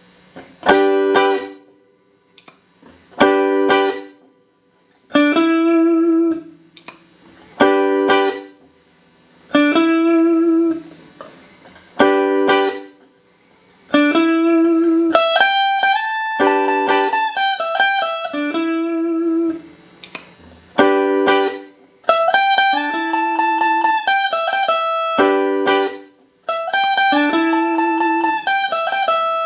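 Clean electric guitar played through a Boss DD-8 digital delay pedal into Roland JC-120 amps. It plays single chords about every two seconds, each ringing out and fading. About halfway through it changes to a steady run of sustained chords.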